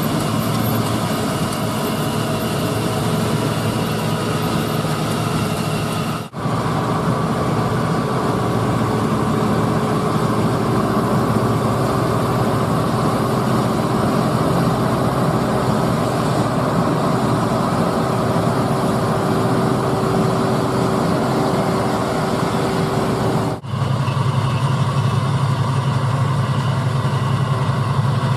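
Harvest machinery (combine harvester and tractor engines) running steadily with a constant mechanical drone. The sound drops out sharply and briefly twice, about six seconds in and a few seconds before the end, and changes character after each drop.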